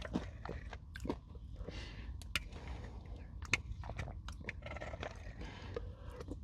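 Close-up mouth sounds of chewing a crunchy Nature Valley oat granola bar coated in yogurt: irregular crisp crackles and crunches.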